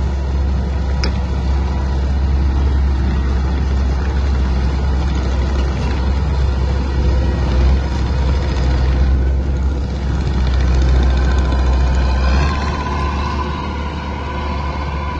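A heavy machine's engine running steadily with a strong low rumble. About twelve seconds in, the low rumble drops away and a higher whine with rising pitch comes up.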